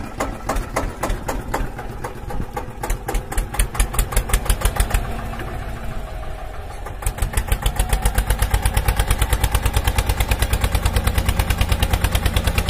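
Tractor engine chugging with a fast, even run of thumps, about six or seven a second. It grows louder and heavier from about seven seconds in.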